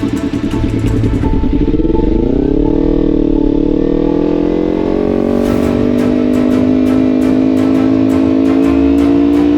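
Motorcycle engine running on the move: its pitch drops about one and a half seconds in, then climbs slowly and evenly and settles, with guitar music playing alongside.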